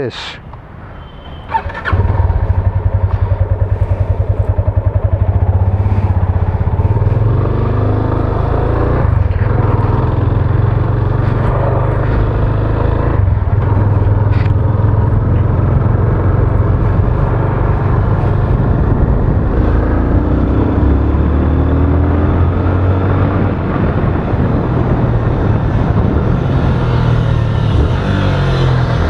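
Yamaha FZ25's single-cylinder engine catches about two seconds in and then runs steadily with an even low pulse.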